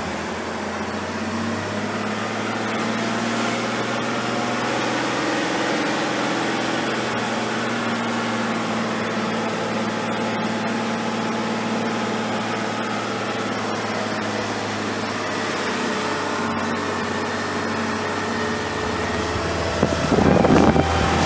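Diesel engine of an Iveco 90-16 all-wheel-drive truck running steadily while driving, a continuous low drone. Near the end it grows louder and rougher.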